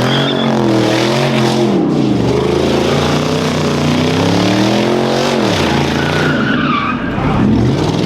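Car engine revving up and down repeatedly while its tyres screech through a sideshow burnout or drift.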